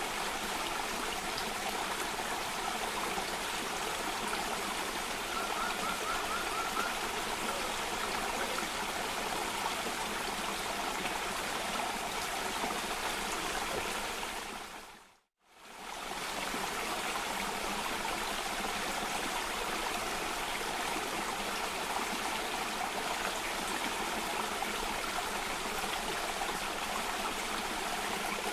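Cascading water rushing steadily. About halfway through it fades out to silence for a moment and fades straight back in.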